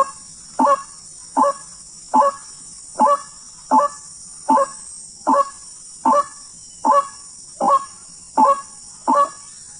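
White-breasted waterhen calling: a short, harsh note repeated at a very even pace, about every three-quarters of a second, over a steady high hiss.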